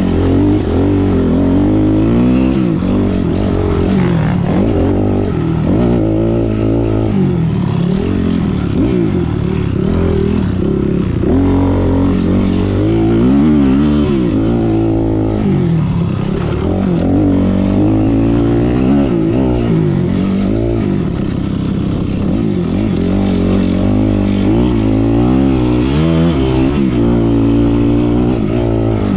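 Motocross dirt bike engines revving hard and easing off over and over, their pitch repeatedly climbing and dropping, with more than one engine heard at once.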